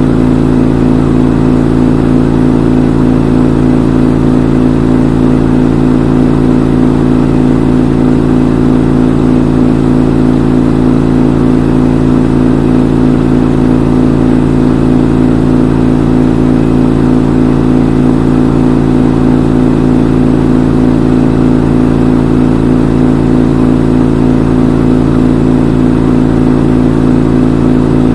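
Front-load washing machine in its spin cycle: the drum spinning at a steady speed with a loud, even hum, with no change in pitch or level.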